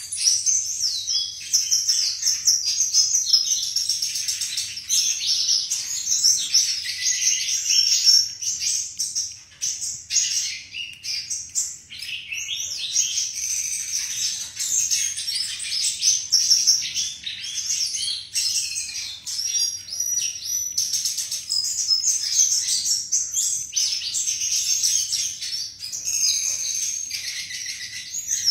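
Flycatcher singing a fast, nearly unbroken, high-pitched warbling song, with a short lull about nine seconds in.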